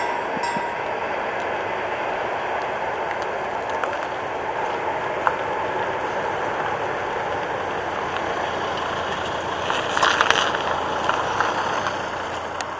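Steady rushing rumble of museum train H 1924 running on away from the level crossing, with a short louder clatter about ten seconds in.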